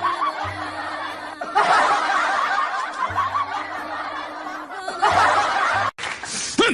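Laughter, people snickering and chuckling, over background music. It comes in three stretches and cuts off abruptly about six seconds in.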